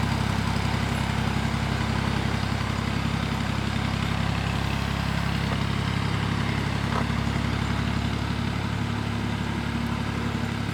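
Ford tractor engine running steadily, a low, even drone.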